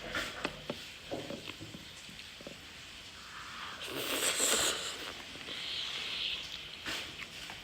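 Eating sounds over a bowl of spicy noodle soup: scattered small clicks and knocks of utensils against the bowl, with a longer noisy slurping stretch about four seconds in.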